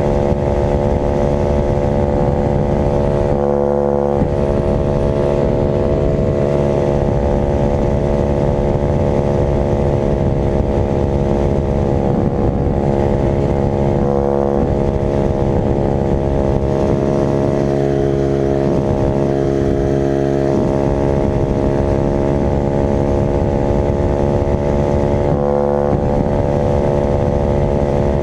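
Dirt bike engine running at nearly steady revs, with its pitch holding level and only a couple of brief dips.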